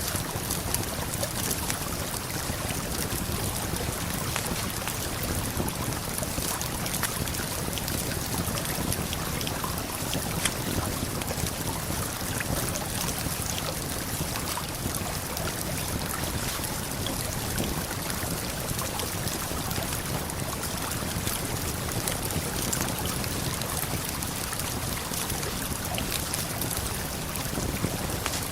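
Steady rush of a waterfall and flowing river, with the small, frequent pops and crackles of a wood campfire scattered over it.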